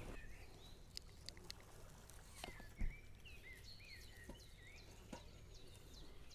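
Quiet outdoor ambience with faint, repeated short chirps from a small bird in the second half, a few light clicks, and a single thump about three seconds in.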